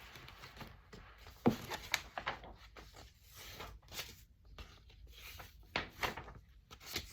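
Quiet handling noise: a scattering of soft clicks and rustles, the sharpest about one and a half seconds in.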